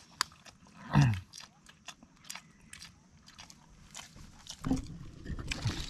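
Close-up eating sounds: chewing and biting with scattered small clicks. There is a short falling vocal sound about a second in, and denser handling noise near the end.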